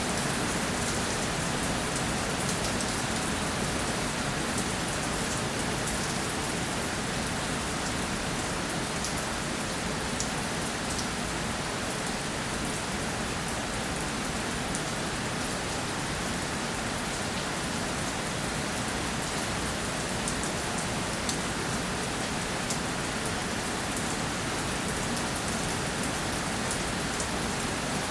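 Steady rainfall, a dense even hiss of rain falling on a surface with many fine individual drop ticks.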